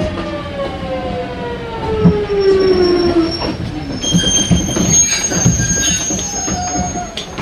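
Kintetsu 1420 series train slowing down: its VVVF inverter and traction motor whine is a stack of tones falling in pitch over the first few seconds. From about four seconds in, a steady high-pitched wheel or brake squeal and the knock of wheels over rail joints take over as the train draws to a stop.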